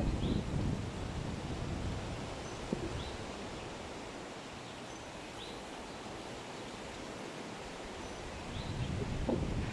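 Outdoor nature ambience: a steady rushing background with wind gusting on the microphone at the start and again near the end, and faint short bird chirps every two to three seconds.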